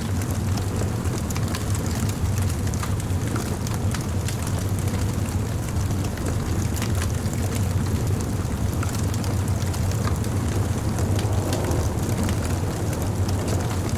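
Wood campfire burning, with a steady low rumble under frequent small crackles and pops.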